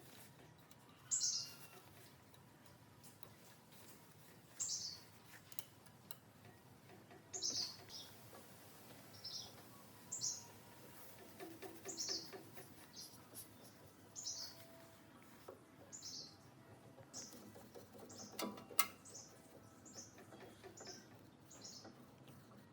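A small bird chirping over and over: short, high chirps that fall in pitch, one every second or two. A single sharp knock sounds late on.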